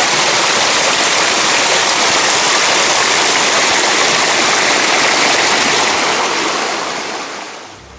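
Small mountain waterfall rushing loudly and steadily close by, the sound fading out near the end.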